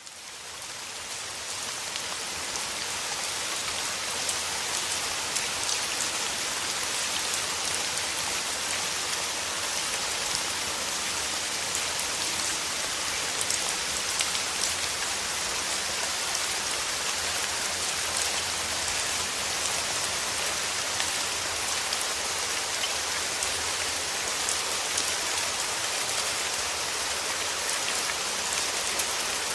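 Steady rain falling: a dense, even hiss with many small drop ticks. It fades in over the first couple of seconds, then holds steady.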